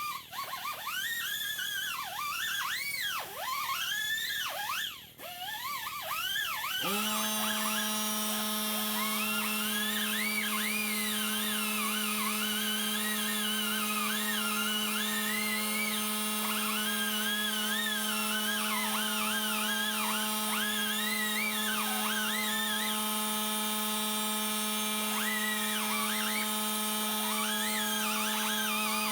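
Pneumatic quarter-inch die grinder with a small wire brush whining as it scuffs hard cast-iron stove paint, its pitch repeatedly dipping and recovering as it is pressed into the surface and eased off. About seven seconds in, a steady low hum starts suddenly beneath the wavering whine.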